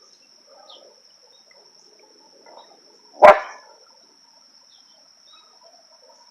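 A dog barks once, loudly and sharply, about three seconds in, over a faint steady high-pitched tone.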